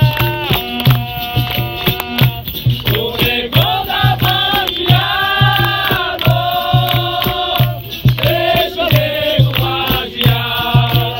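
Capoeira roda music: a group singing over a steady, even drum beat with percussion, the chorus joining in fuller in the middle.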